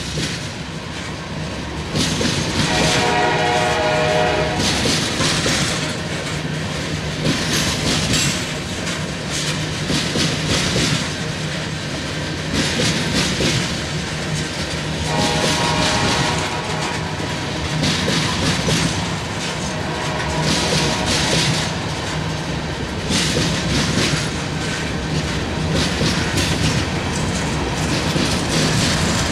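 Freight train tank cars rolling past: a steady rumble of wheels on rail with repeated clickety-clack over the rail joints. Twice, about three seconds in and again about fifteen seconds in, a train horn sounds for a couple of seconds over it.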